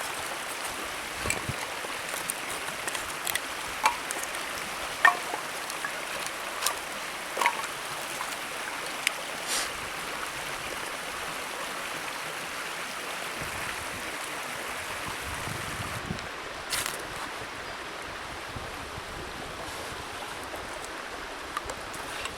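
Wood campfire crackling: a steady hiss with scattered sharp pops, most of them in the first half.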